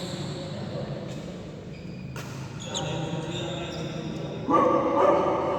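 Indoor badminton play: sharp racket-on-shuttlecock hits and short, high shoe squeaks on the court floor. About four and a half seconds in, a sudden louder burst of voices breaks out.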